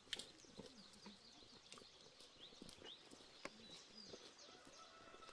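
Faint countryside ambience: many short, high bird chirps, with scattered small clicks and a few low animal sounds.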